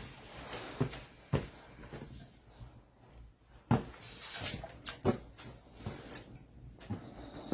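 Irregular knocks and clunks of objects being handled, about eight of them, the loudest a little under four seconds in.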